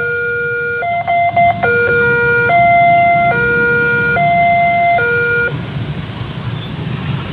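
Electronic two-tone warning signal alternating between a high and a low note roughly every 0.8 seconds, with a brief stutter about a second in, cutting off abruptly about five and a half seconds in, over a low steady rumble.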